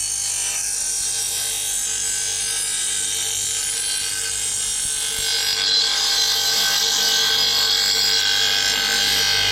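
Bosch GBG 35-15 bench grinder running with a steel lawn mower blade held against the grinding wheel: a steady, hissing grind over the motor's hum as the blade's cutting edge is sharpened. The grind gets a little louder from about halfway.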